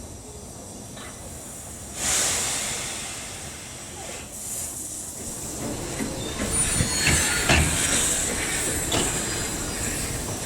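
Narrow-gauge steam locomotive and train: a sudden hiss of steam starts about two seconds in and fades. From about six seconds in, a louder rumble follows, with several clanks.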